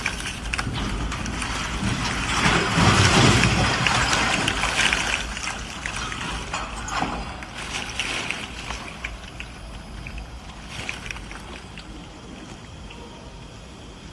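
Heavy rain and strong wind, gusting loudest about two to five seconds in and then easing, with scattered sharp clicks and rattles.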